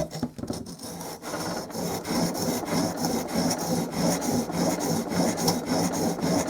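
Steel chisel blade, held in a wheeled honing guide, being worked back and forth on an oiled sharpening stone in quick, even strokes, a steady rasping rub. It is grinding the blunt edge down to a new bevel.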